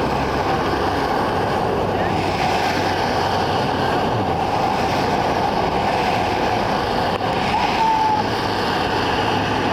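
Steady wash of rain, a dense even hiss with no break.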